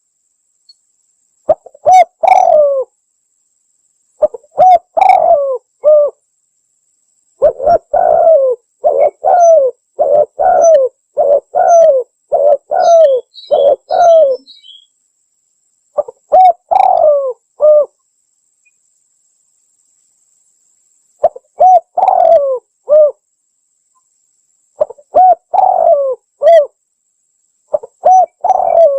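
Spotted dove (tekukur) cooing in repeated phrases of low coos, with a long rapid run of coos in the middle and a pause of a few seconds before the phrases start again.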